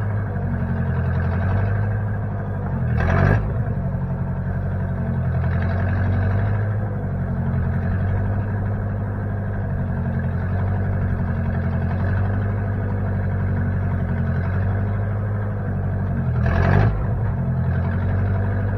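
1960 Case backhoe's engine running steadily, with a short louder rush of noise about three seconds in and again near the end.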